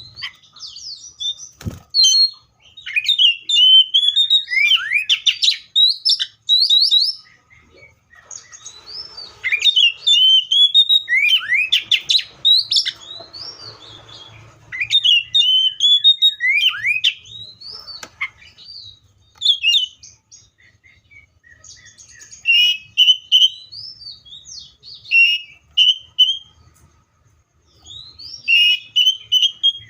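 Seychelles magpie-robin singing: loud bouts of quick, sweeping whistled and chirping notes a few seconds long, separated by short pauses. A single sharp click sounds about two seconds in.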